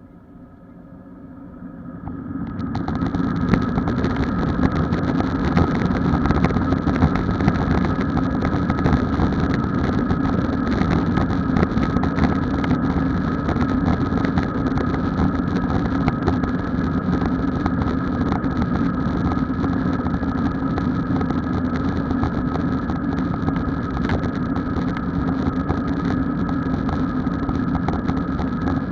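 Airbus A321 cabin noise from its IAE V2500 engines, heard from inside. It swells over the first three seconds to a loud, steady rumble with a whine on top. The action camera rattles in its suction-mounted case throughout.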